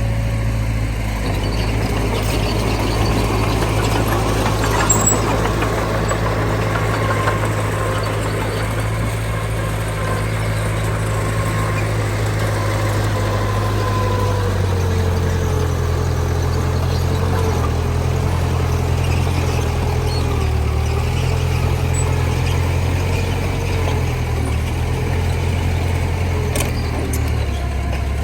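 Heavy diesel engines of a dump truck and bulldozer running steadily, the low engine note shifting about halfway through.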